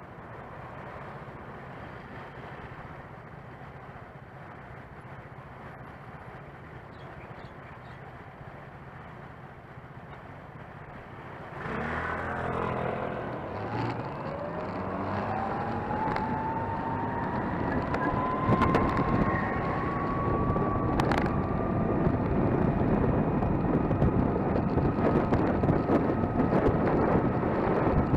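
Gogoro 2 electric scooter pulling away: a low steady road hum at first, then about twelve seconds in its motor whine rises in pitch and levels off while wind noise on the microphone grows louder.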